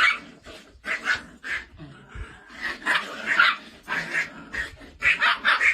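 Two dogs barking and yapping in quick short bursts while they bite at each other in a scuffle.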